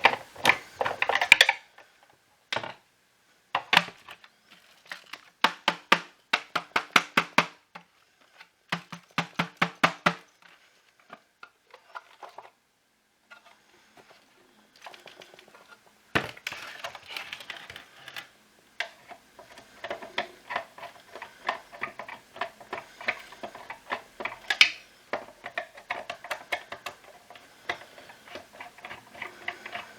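Clicking and rattling of hard plastic parts and hand tools as a Shark cordless stick vacuum is taken apart. There are runs of rapid, evenly spaced clicks in the first third, then denser rattling and tapping after about halfway.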